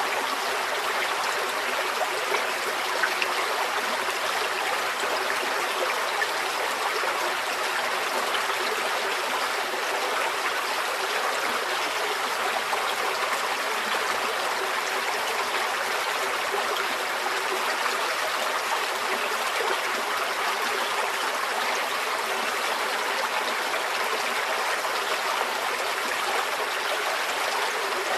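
Small forest stream flowing steadily over stones, a continuous even rush of water with light trickling and babbling.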